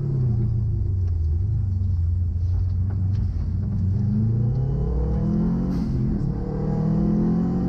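Subaru Impreza GC8's flat-four boxer engine heard from inside the cabin, running at low revs through a slow section, then accelerating hard with rising pitch, a short drop around six seconds in as it shifts up, and pulling again.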